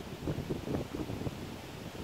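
Gale-force wind buffeting the microphone: a low, uneven noise that swells and fades with each gust.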